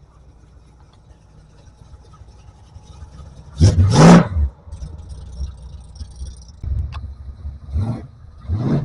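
A car engine revving briefly about three and a half seconds in, its pitch rising and falling, over a low engine and road rumble, with smaller surges of vehicle noise near the end.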